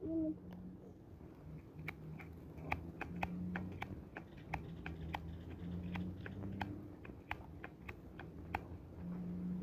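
Campfire crackling: irregular sharp pops and snaps, several a second, over a faint low hum.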